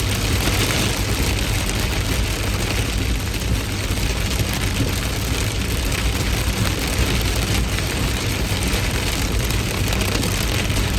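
Heavy rain falling steadily, an even hiss with a steady low rumble underneath and no thunderclaps.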